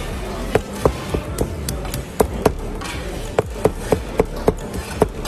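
A knife chopping on a cutting board in quick, sharp strokes, about three a second, with short pauses between runs.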